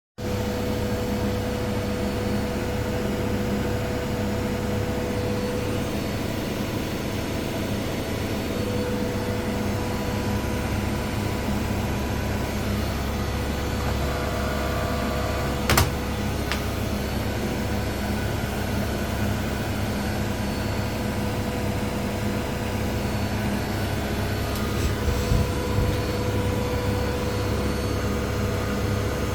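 Two Miele front-loading washing machines, a Vitality W427 and a Novotronic W971, running side by side in their final spin: a steady hum and whine from the drums and motors, with one sharp click about halfway through and a few light knocks near the end.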